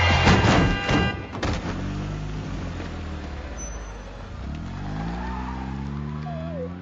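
Music cuts off, then a single thump about a second and a half in. From about halfway through, a car engine rises steadily in pitch as the car accelerates.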